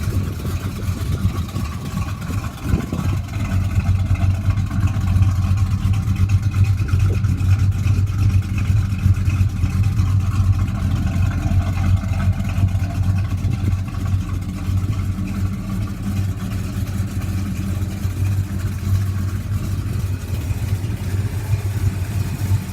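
Chevrolet 350 small-block V8 with a Holley four-barrel carburettor and coated headers idling steadily, heard from the exhaust at the rear of the car. A low, even exhaust note; the owner describes the engine as running excellent.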